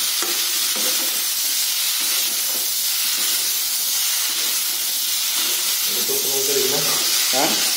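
Pork and onions frying in a hot wok, a steady sizzling hiss as they are stirred with a spatula.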